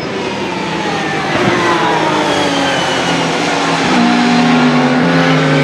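Race car engine getting louder as it approaches, its note falling steadily as it slows, with a couple of downshifts in the second half.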